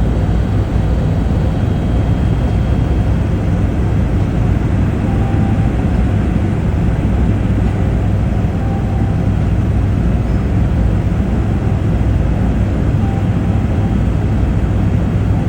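Tour helicopter in flight, heard from inside the passenger cabin: a steady, unbroken drone of engine and rotor with a strong low rumble.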